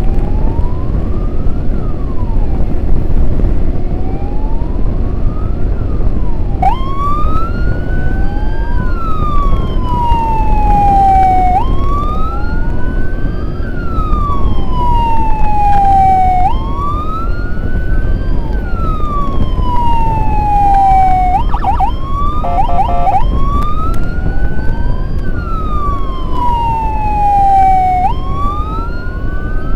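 Emergency siren wailing, sweeping slowly up and down in cycles of about five seconds, over a heavy rumble of wind and engine from riding. The siren comes in louder about six seconds in, and shortly after the middle it switches briefly to a rapid warble before the wail resumes.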